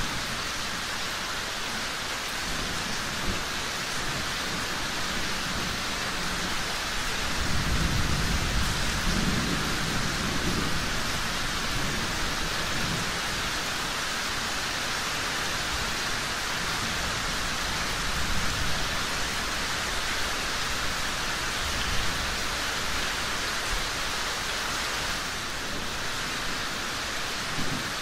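Steady heavy rain hissing down, with a low rumble of distant thunder swelling up from about 7 seconds in and fading by about 11 seconds. A few single sharp ticks stand out above the rain.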